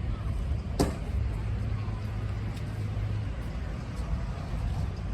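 Diesel-electric locomotives of a MARC commuter train running, a steady low rumble, with one sharp click about a second in.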